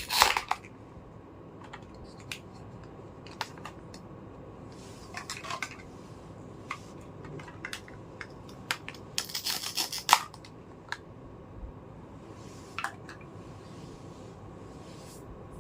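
Small plastic toy kitchen pieces being handled, clicking and rubbing against each other in scattered bursts with short pauses between.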